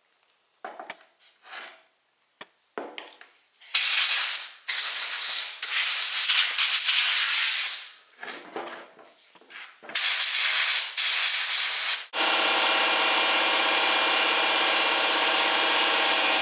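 Compressed-air blow gun hissing in long bursts as dust and sawdust are blown off a chainsaw. About twelve seconds in, an electric motor starts and runs with a steady hum.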